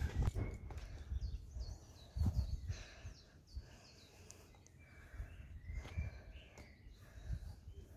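Small birds chirping and whistling in short calls, over a few low thumps and rumbles that are loudest at the start and about two seconds in.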